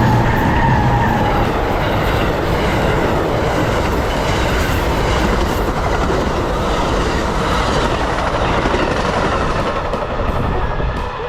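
Amtrak passenger train rolling past at speed, its wheels running loud and steady on the rails, with a faint high tone in the first second or so.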